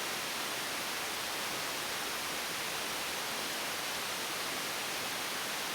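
A steady, even hiss that does not change, with no distinct knocks, scrapes or tool sounds standing out.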